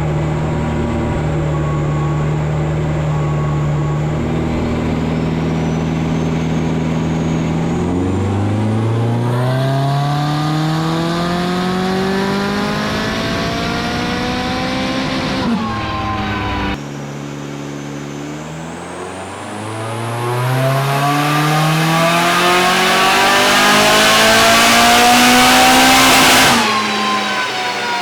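Turbocharged Toyota 3SGE Beams inline-four in a 1984 Maserati Biturbo, running on a dyno. It runs steadily, then revs up through a long full-throttle pull from about eight seconds in that breaks off around sixteen seconds. A second, louder pull climbs from about nineteen seconds and cuts off sharply near the end, with a high whine rising alongside each pull.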